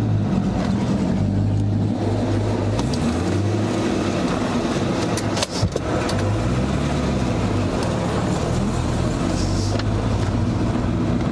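Corvette C5's LS2 V8 idling with its exhaust in the quiet, muffled mode, the revs rising and falling once briefly about six to seven seconds in. A sharp click sounds just before the rev.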